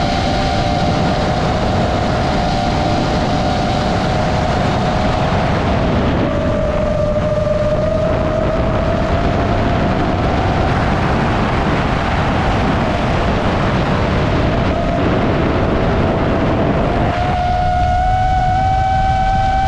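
iFlight Nazgul Evoque FPV quadcopter's brushless motors and propellers whining under a heavy rush of air noise, the pitch sagging about a third of the way in, then climbing slowly and rising sharply near the end as the throttle changes.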